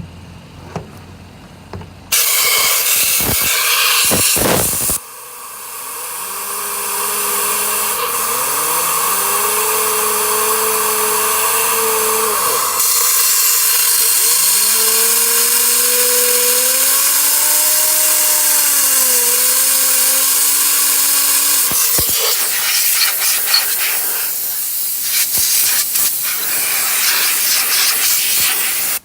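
Compressed-air blow gun hissing into a Mercedes Sprinter T1N turbocharger, spinning its wheel with a whine that rises and falls in pitch as the air is worked on and off. The hiss starts about two seconds in, breaks off briefly, then runs on loud.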